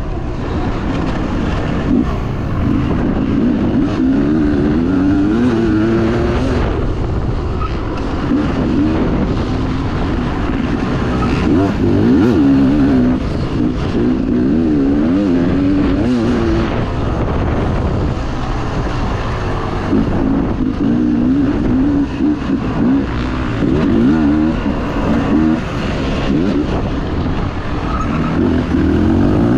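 Dirt bike engine racing over rough ground, the revs rising and falling continually as the throttle is worked, with wind and rattle noise underneath.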